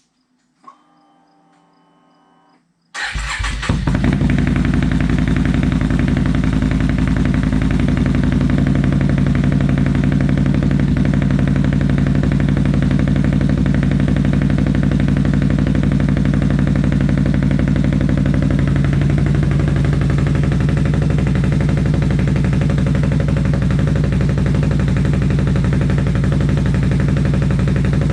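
Can-Am Renegade XMR ATV engine starting about three seconds in and then idling steadily through an SLG Performance Series aftermarket exhaust. A faint whine comes just before it catches.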